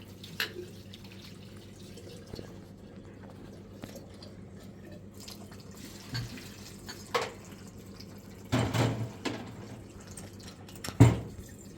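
Scattered drips and splashes of water with a few short knocks, the loudest near the end, over a steady low hum.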